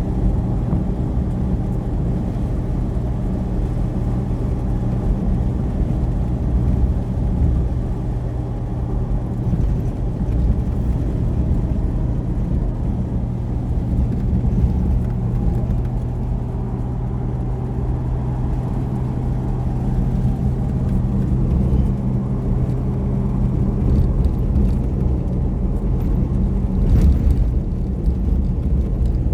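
A motor vehicle running steadily: a low engine hum with rumble, getting a little louder near the end.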